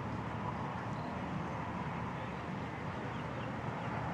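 Steady outdoor background noise with a faint, even engine hum from a personal watercraft running at low speed.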